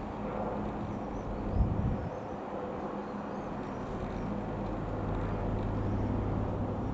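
Light aircraft's piston engine running with a steady drone that grows a little louder near the end. A brief low thump comes about a second and a half in.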